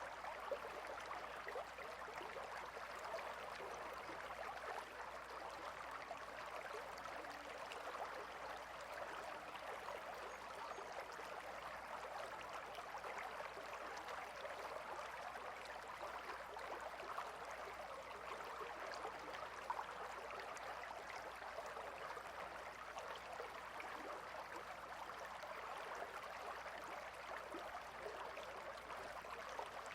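Gentle river flowing: a steady, soft rush of water with fine trickling texture.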